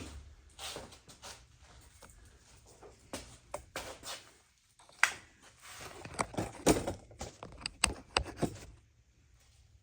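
Metal hardware being handled and rummaged through: an irregular run of sharp clicks and rattles, loudest in the second half and stopping shortly before the end.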